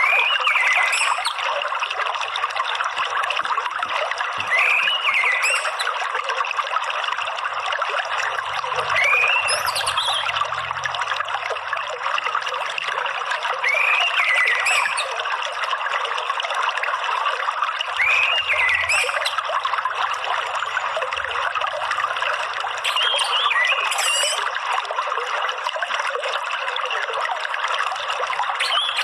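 Steady trickling of running water, with a short rising-and-falling whistled call of an orange-headed thrush (anis merah) repeating about every four to five seconds.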